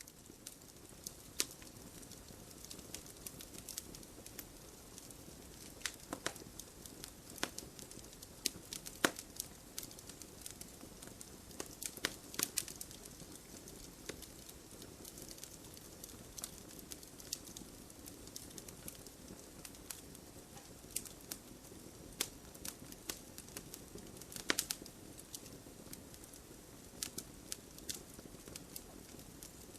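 Wood fire crackling in a fireplace: a steady low hiss of burning under frequent sharp snaps and pops from the logs, a handful of them louder than the rest.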